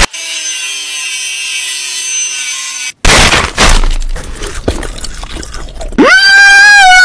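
Short sound-effect clips cut back to back. A quiet steady tone comes first, then a crash with breaking and clattering about three seconds in, then a loud held note that swoops up at the start about six seconds in.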